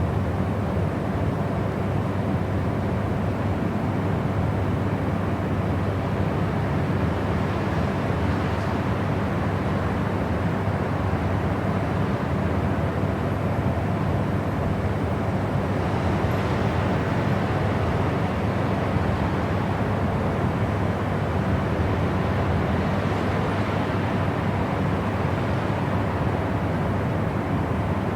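A steady white-noise track with a deep, even hiss weighted toward the low end, like a continuous engine or cabin drone. The higher hiss swells faintly a few times.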